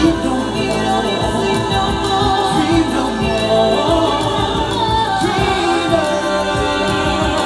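A cappella vocal group singing held chords, every part made by human voices.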